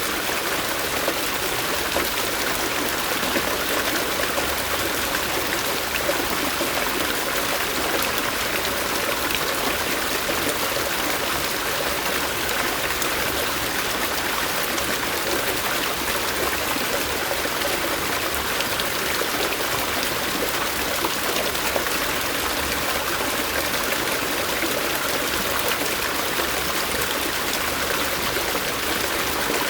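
Stream water running over rocks in a steady, unbroken rush.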